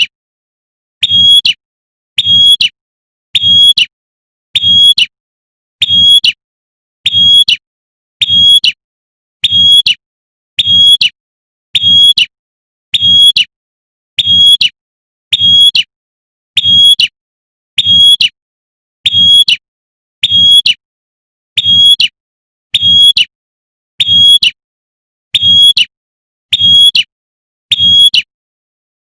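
Female prinia (prenjak) giving its sharp 'tembakan' call over and over: one short, high note about every 1.2 seconds, evenly spaced like a loop, each with a low thud beneath it.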